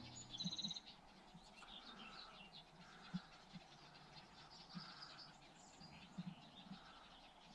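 Faint outdoor ambience with birds chirping. A clear bird call just under a second in is the loudest moment, scattered high chirps follow, and a softer call repeats every second or two.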